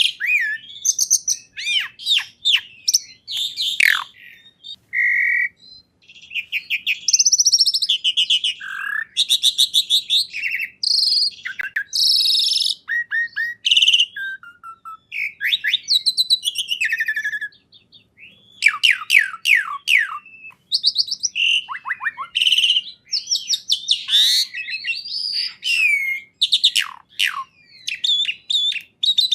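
A songbird singing a long, varied song of rapid high chirps, quick trills and sweeping whistles, with a brief pause about two-thirds of the way through.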